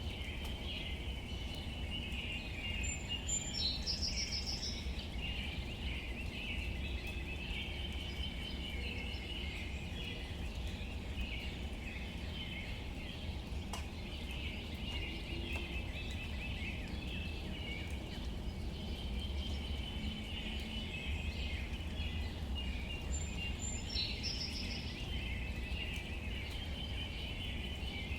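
Steady outdoor nature ambience: a low rumble under a continuous chorus of high chirping, with a short bird call twice, a few seconds in and again near the end.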